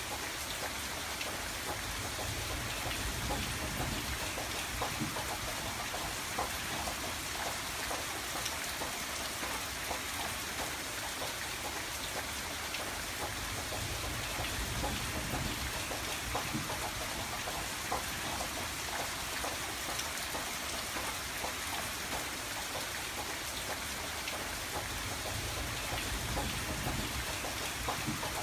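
Steady rain pattering on a window, with many small drop ticks over an even hiss and a low rumble that swells and fades every few seconds.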